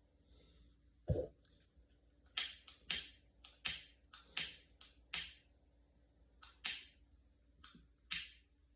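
A single low thump, then about a dozen short, sharp clicks or snaps at uneven intervals, some in quick pairs.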